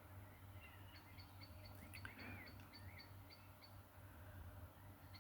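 Faint outdoor ambience of birds chirping: a short high chirp repeated about three times a second, with a few lower warbling notes about two seconds in, over a steady low hum.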